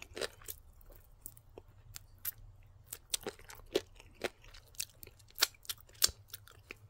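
Close-up chewing and crunching of crispy chicken wings. There are irregular wet mouth clicks and smacks, the sharpest about four, five and a half and six seconds in.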